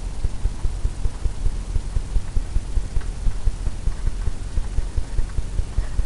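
Quick, irregular low thuds, several a second, of paint being worked onto a stretched canvas, the canvas drumming under each stroke.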